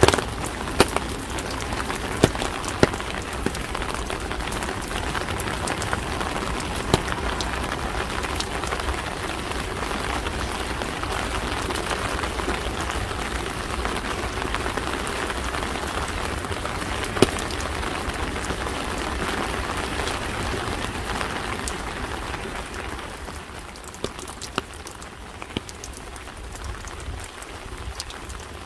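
Rain falling on street surfaces: a steady patter with scattered sharper drops. It turns quieter about 23 seconds in.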